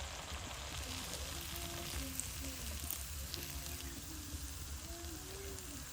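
A steady hiss of noise, with faint voices in the background.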